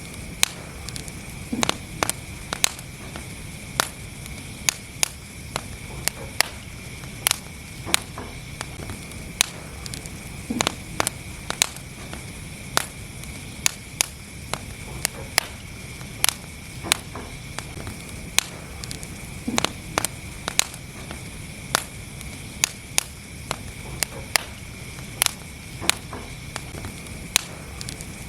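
Wood fire burning in a fireplace: sharp crackles and pops, about one or two a second, over a low steady rumble.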